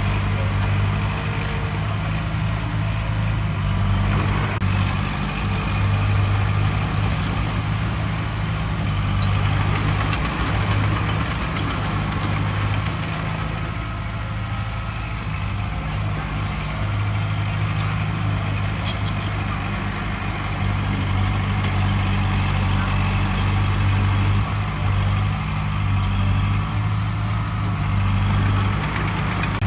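Heavy diesel engine of earthmoving machinery running steadily at a low, even pitch, with a few faint clicks partway through.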